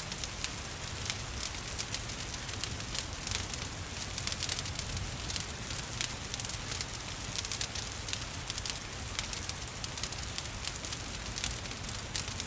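Wood fire crackling in a fireplace, with many small sharp pops coming irregularly several times a second, over a steady hiss of falling rain.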